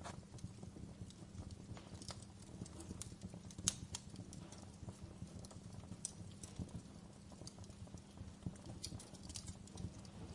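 Wood fire crackling in a fireplace: irregular sharp pops and snaps over a low, steady rumble, with one louder pop about four seconds in.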